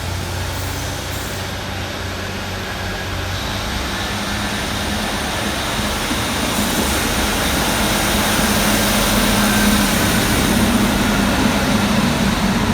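Class 156 Sprinter diesel multiple unit's underfloor diesel engines running under power as the train pulls away, a steady drone that grows gradually louder.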